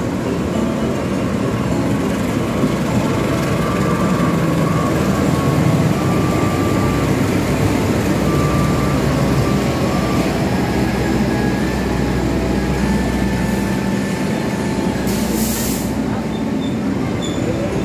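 Argo Cheribon passenger train hauled by a diesel locomotive pulling into the station, its coaches rolling past the platform with a loud, steady running noise. A brief high hiss comes about fifteen seconds in.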